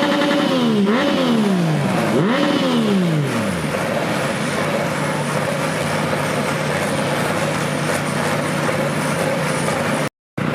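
An engine revved up and down about three times in quick succession, then held at a steady speed. The sound cuts out briefly near the end.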